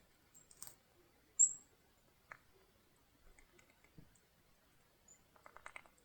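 Birds at a backyard feeder and suet: a single short, very high call about a second and a half in, the loudest sound, with scattered light taps and a quick run of tapping near the end as the birds peck at the food.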